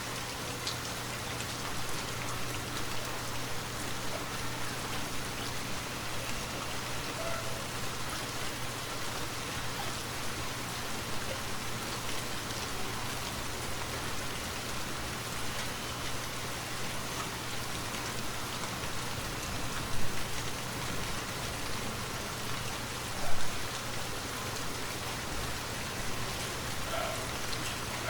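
Steady rainfall in a forest, an even hiss of drops with no letup. Two brief louder hits stand out, about twenty seconds in and again about three seconds later.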